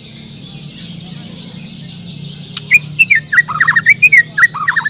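White-rumped shama (murai batu) singing loudly from about three seconds in: a rapid run of short, sharply falling whistled notes. Under it, a dense steady chorus of many other songbirds and a low hum.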